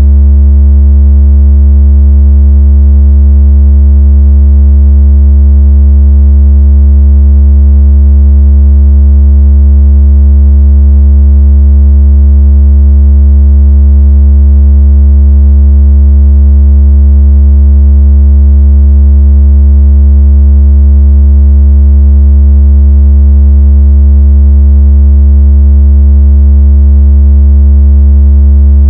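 A steady, very loud, deep synthesized tone with faint overtones, holding unchanged. It is a speaker-cleaning tone, played to vibrate water out of a phone speaker.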